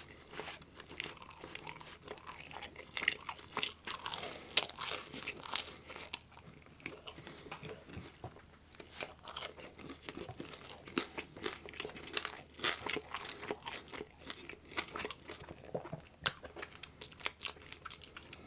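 Close-miked chewing and biting of loaded meat pizza, with wet mouth sounds and irregular crunches from the crust and toppings.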